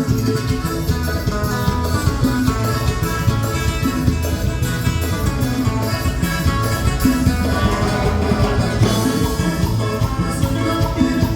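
Live Latin dance music from a band: a steady drum beat with melodic instruments holding notes over it.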